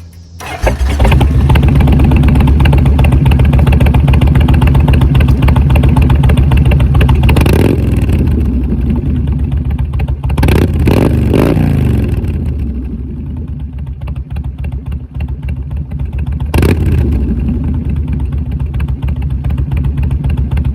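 Kawasaki VN1600 Mean Streak's V-twin engine through Vance & Hines exhaust pipes, throttle opened about half a second in and running loud and hard. The pitch shifts several times in the middle.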